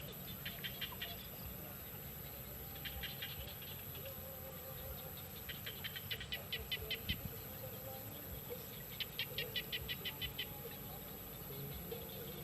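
Small bird calling in quick runs of short, sharp chirps, about eight to ten a second, in four bursts: near the start, around three seconds in, around six seconds in and around nine seconds in.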